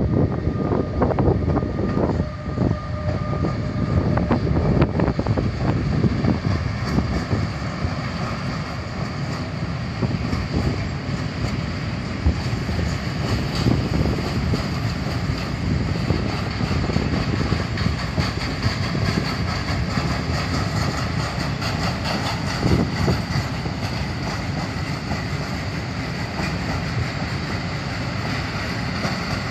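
Freight train of open coal wagons hauled by a Pol-Miedź Trans TRAXX locomotive rolling through the station, the wagons' wheels rumbling steadily over the track. There are knocks and a steady whine in the first few seconds.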